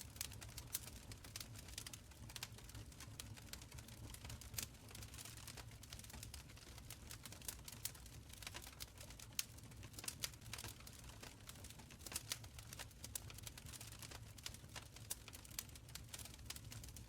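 Wood fire burning in a stone fireplace: a steady low rumble of the flames with many quick, irregular crackles and pops.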